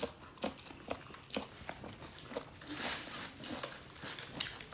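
Eating at close range: irregular crisp clicks and crunches of chewing, with a brief hiss about three seconds in.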